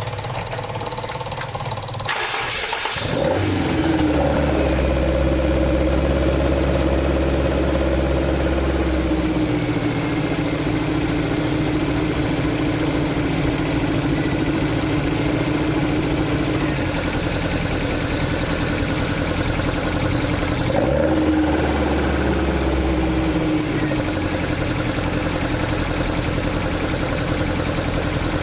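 AE86's swapped-in AE101 4A-GE 20-valve engine running at idle. The sound changes about three seconds in, then settles into a steady note whose low hum strengthens for a few seconds twice.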